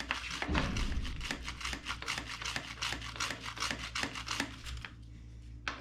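Chain brush scrubbing a motorcycle chain wet with chain cleaner: quick, repeated rasping strokes of bristles over the chain links, stopping about five seconds in.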